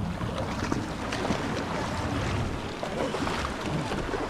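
Steady wind buffeting the microphone, with water washing and splashing around a small fishing boat.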